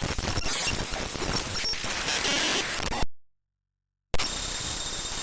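The raw bytes of the chrome.exe executable played back as audio: harsh static-like noise with brief buzzy tones. About three seconds in it cuts to a second of dead silence, then the noise resumes with a thin high whine running through it.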